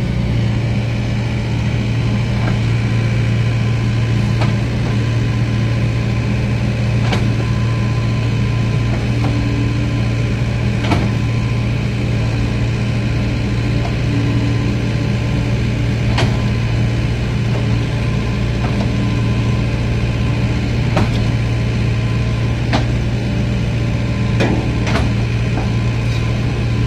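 Steady low hum of a heavy diesel engine running at constant speed, with a short sharp knock every few seconds.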